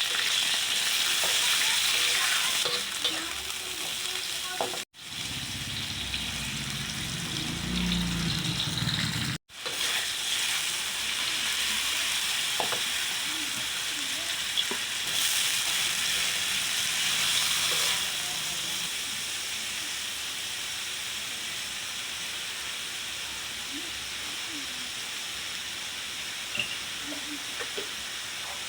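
Food sizzling as it fries in hot oil in a pan, a steady hiss. It breaks off twice into brief silence, about five and nine and a half seconds in, with a low rumble between the two breaks.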